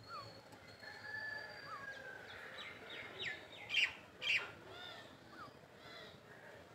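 Birds chirping and whistling, a mix of short falling slurs and high held notes, with two louder sharp calls a little after the middle.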